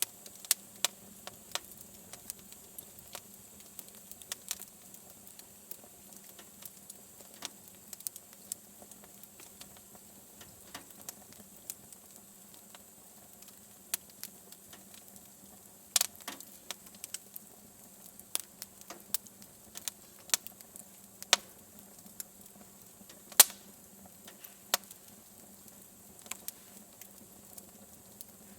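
Wood fire burning in a fireplace, crackling with irregular sharp pops over a faint steady hiss, the loudest pops about 16 and 23 seconds in.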